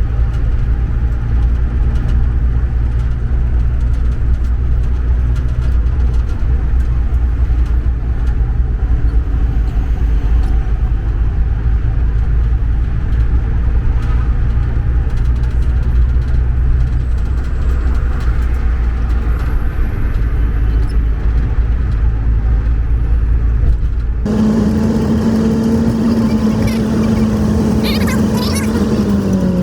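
A motor vehicle's steady low rumble. About 24 seconds in it changes suddenly to a steadier engine hum, which drops in pitch near the end.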